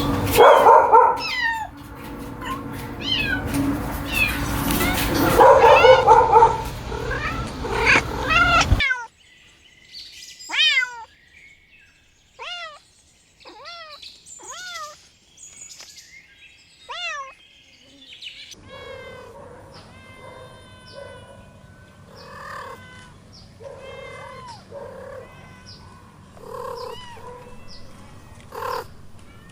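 Kittens mewing: a long string of short, high mews that rise and fall in pitch. For the first nine seconds they sit over loud background noise, then come singly and cleanly, and from about 18 s over a faint steady background.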